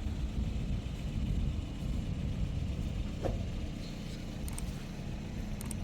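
Low, steady rumble like a vehicle running, with a short falling tone about three seconds in.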